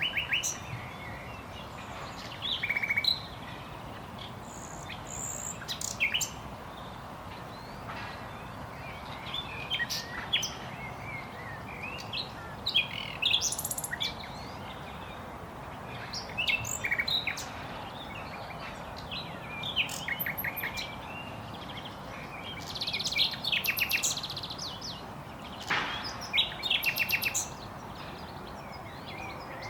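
Common nightingale singing: varied phrases of whistles and fast rattling trills, with short pauses between them.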